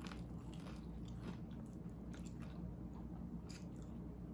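A person chewing a bite of breaded chicken tender, with a few faint, scattered crunches.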